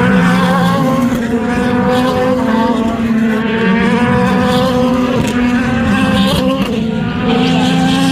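Sports-prototype and GT race car engines running at high revs on the circuit, a loud steady drone of several engines overlapping, their pitch stepping up and down a few times.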